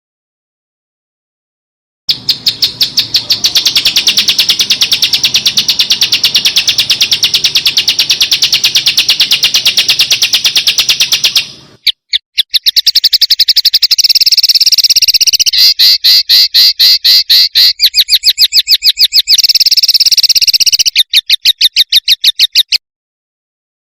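A small songbird's recorded song: after about two seconds of silence, a very fast trill of high repeated notes runs for about ten seconds, then after a short break a second fast trill comes in shorter phrases with brief gaps, stopping shortly before the end.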